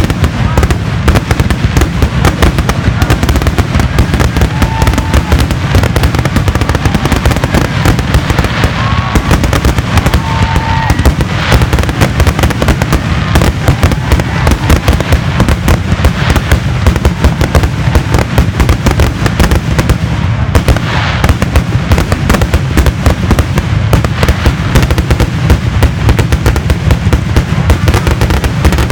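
Fireworks finale barrage: a continuous, rapid string of aerial shell bursts and crackling reports that never lets up.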